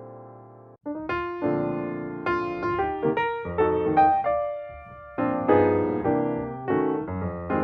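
Background piano music: a held chord fades out, then a new piano phrase of separate notes starts about a second in.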